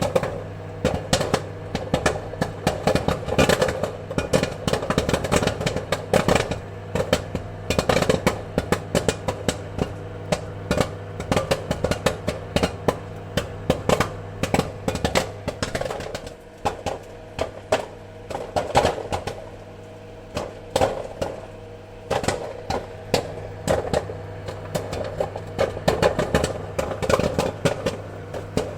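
Popcorn kernels popping in quick, irregular bursts over a steady low hum. The popping thins out to scattered pops for a few seconds past the middle, then picks up again.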